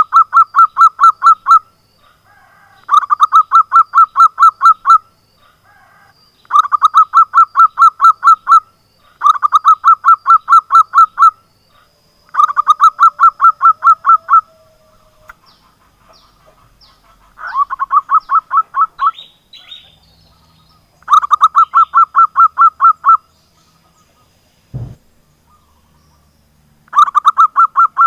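Zebra dove (perkutut) singing: eight bursts of rapid staccato coo notes, each about two seconds long, repeated every three to four seconds. A single dull thump comes in near the end.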